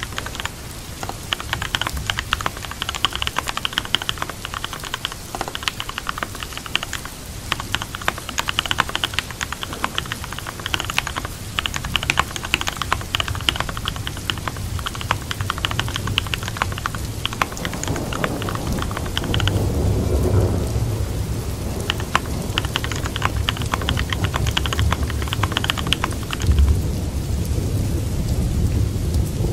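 Steady rain sound effect under quick computer-keyboard typing clicks. About two-thirds through, the typing pauses while a low rumble, likely thunder, swells for a few seconds.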